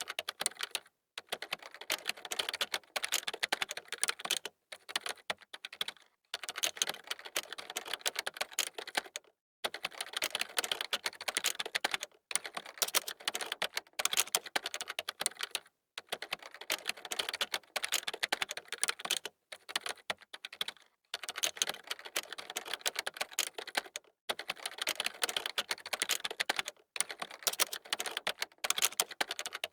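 Fast typing on a computer keyboard: rapid runs of key clicks, broken by brief pauses every few seconds.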